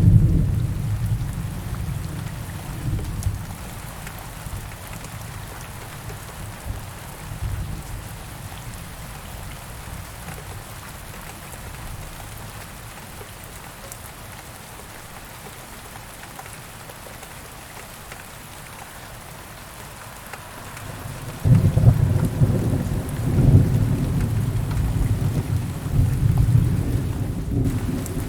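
Thunderstorm: steady heavy rain hissing. Low thunder rumbles at first and dies away, then a loud peal of thunder breaks in about three-quarters of the way through and keeps rolling to the end.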